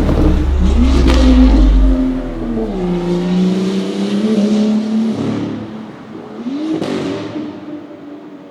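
BMW M2 F87's turbocharged straight-six with an iPE valve-controlled cat-back exhaust, revving: the engine note climbs and falls several times, with a deep rumble in the first couple of seconds, and grows quieter toward the end.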